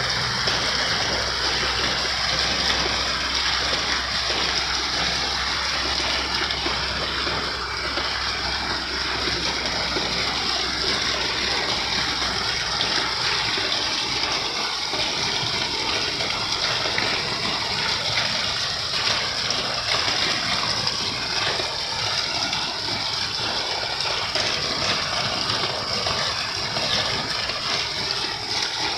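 Steady rushing water, loud and unbroken, with a low rumble under it in the first second or two.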